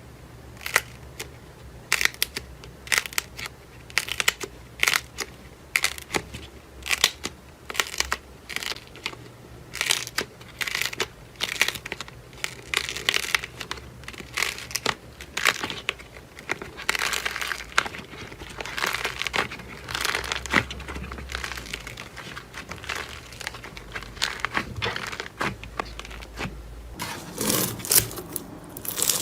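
Crunchy material crushed and squeezed by hand: a long run of crisp crackles and snaps, separate at first and then coming thick and fast.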